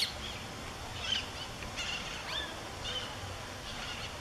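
Songbirds giving short, scattered chirps and calls, with a brief sharp click at the very start.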